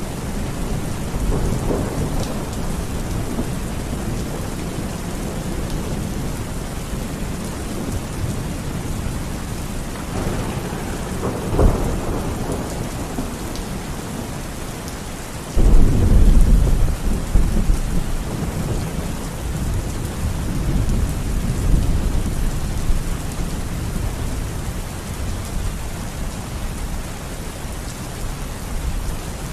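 Steady rain falling, with thunder: a short rumble a little before the halfway point, then a sudden louder clap just past halfway that rolls on for several seconds.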